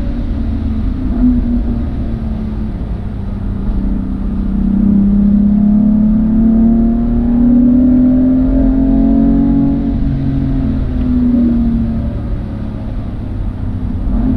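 Car engine heard from on board, pulling with its pitch rising steadily from about four seconds in, then easing off, over a heavy low rumble of road and wind noise.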